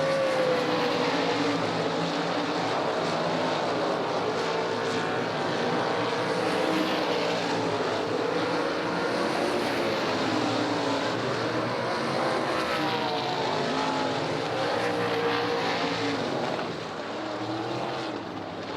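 Sprint car engines racing around an oval track, the pitch rising and falling over and over as the cars accelerate down the straights and lift into the turns, several engines overlapping. The sound drops off somewhat near the end.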